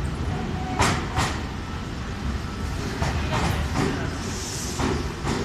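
Semboku Rapid Railway commuter train (set 7523F) pulling slowly into the platform: a steady low rumble with pairs of sharp clicks as the wheels cross rail joints, and a brief high hiss about four and a half seconds in.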